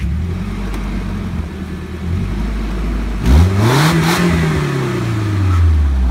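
Nissan 240SX S14's KA24DE 2.4-litre inline-four idling with its muffler removed, then blipped hard once about halfway through. The pitch shoots up and falls back smoothly to idle.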